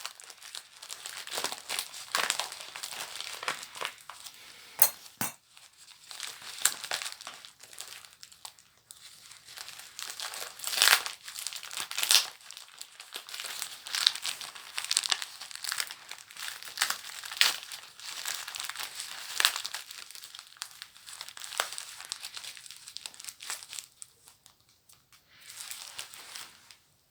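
Paper book packaging being crinkled and torn open by hand, in irregular crackling bursts, with two sharp clicks about five seconds in.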